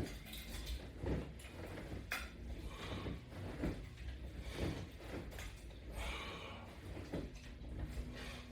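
Faint, repeated creaks and clicks from resistance straps and latch-bar hardware, about one a second, in time with sit-up repetitions, over a low steady hum.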